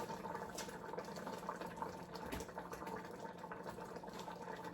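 A pot of oatmeal simmering on the stove, bubbling and popping in small irregular crackles over a steady low hum.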